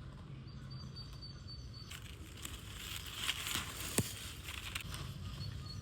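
Outdoor ambience: a run of short high chirps in the first couple of seconds, then a rustling, crackling noise, with a single sharp click about four seconds in.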